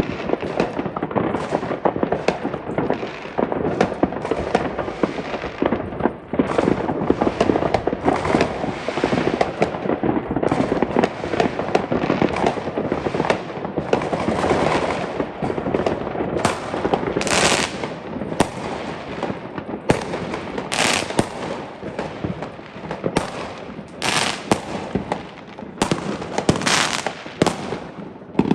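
Fireworks and firecrackers going off without a pause: a dense run of pops and crackles, with several louder, sharper bangs in the second half.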